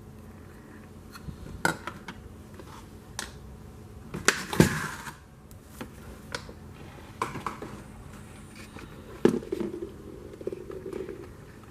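Hard plastic toy pieces being handled and set down: scattered clicks and knocks with light rustling, the loudest cluster about four and a half seconds in.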